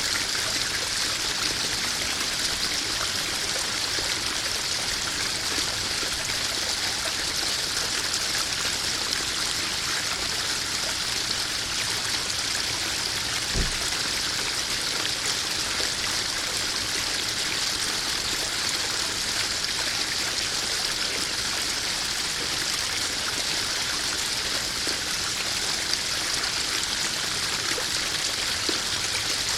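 Garden koi pond waterfall, water spilling and splashing steadily into the pond, with a single brief low thump about halfway through.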